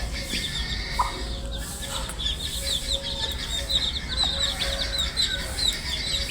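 A brood of baby chicks peeping continuously: many short, high, overlapping peeps, each falling in pitch, with a low steady hum underneath.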